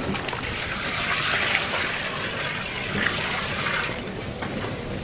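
A steady rush of flowing liquid, a continuous hiss with a few faint clicks.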